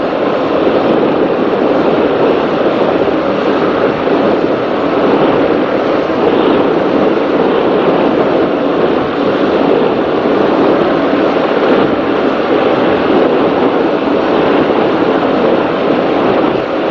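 Offshore racing powerboat running at speed: a steady, even rush of engine, wind and water noise.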